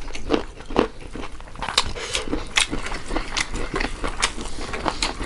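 Close-up eating sounds: crunching bites of raw carrot and wet chewing of rice and meat curry, a quick irregular run of crunches and mouth smacks.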